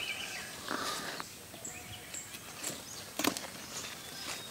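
Quiet outdoor field ambience with scattered short bird chirps and a few sharp clicks, the loudest a little over three seconds in.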